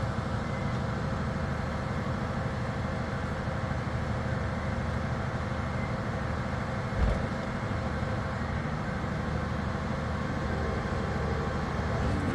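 Crane truck's engine running steadily, with a single knock about seven seconds in.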